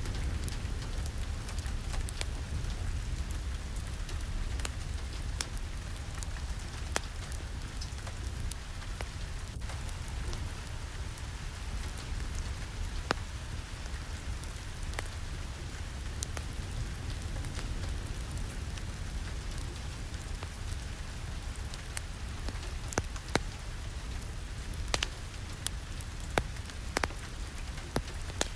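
Steady rain with a low rumble underneath, mixed with a crackling fireplace; sharp pops and taps are scattered throughout, clustering near the end.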